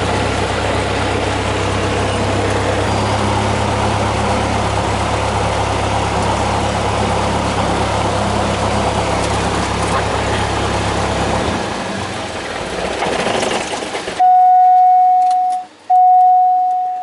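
Cessna 172's four-cylinder Lycoming engine and propeller running steadily, heard from inside the cabin; its low drone stops about two-thirds of the way through. Near the end come two loud, steady beeps with a short gap between them.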